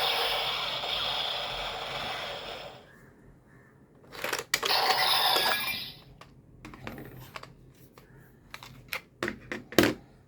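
Plastic clicks and snaps from a bootleg Kamen Rider Zero-One Driver toy belt being handled and operated, with Progrise Key and faceplate parts being worked. It opens with the toy's loud electronic sound effect fading out over about three seconds, and a short burst of sound comes about halfway through.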